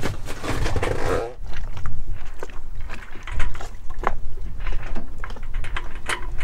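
Small outboard motor on a dinghy tender running with a steady low rumble, with scattered short knocks and clicks over it.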